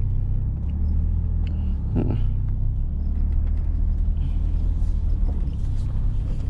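GMC Sonoma pickup's engine running at low speed with a steady low rumble, with a brief clunk about two seconds in.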